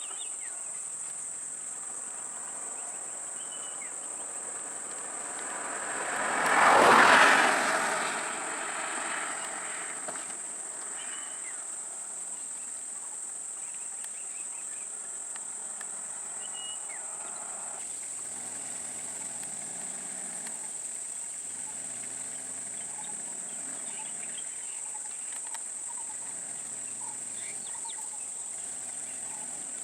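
Steady high-pitched drone of insects in roadside forest. About six seconds in, a vehicle passes, rising and fading over a couple of seconds.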